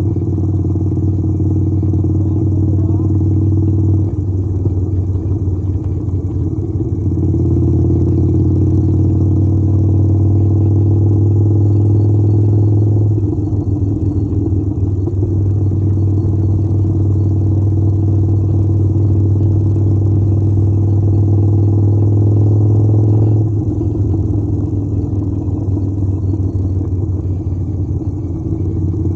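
Harley-Davidson V-twin motorcycle engine running on the move, holding steady for several seconds at a time, with its pitch and loudness changing a few times as the throttle and gears change.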